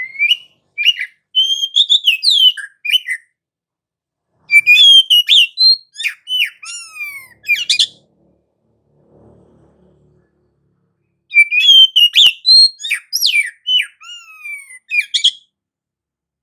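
Oriental magpie-robin (kacer) singing in three loud bursts of rapid, varied whistled notes with sweeping up-and-down glides, separated by pauses of one to three seconds.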